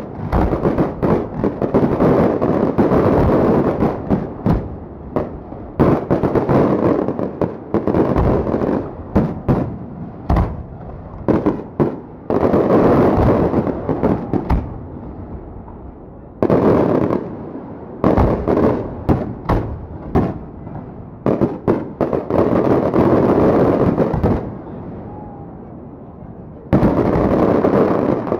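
Fireworks display: a rapid run of aerial shell bursts and crackling bangs. There is a short lull about halfway through and another near the end, followed by a dense volley of bangs.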